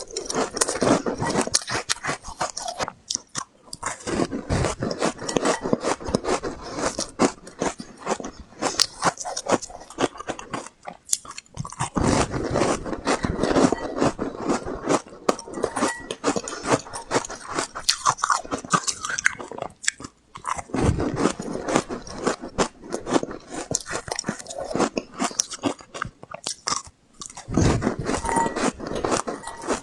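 Close-up crunching and chewing of refrozen honeycomb ice, dense crackling bites broken by short pauses between mouthfuls.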